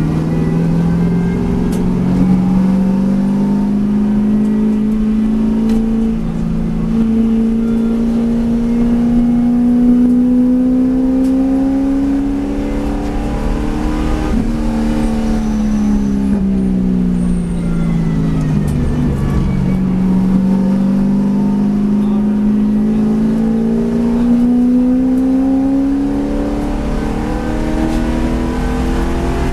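V8 race car engine running hard on track. Its pitch climbs slowly for about half the time, drops away over several seconds as the car slows, then climbs again.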